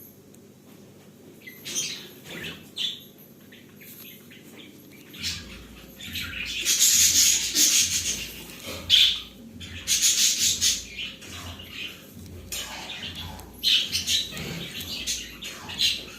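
Pet budgerigars chirping and chattering, with scattered short chirps at first and then loud, rough bursts of chatter repeating from about six seconds in.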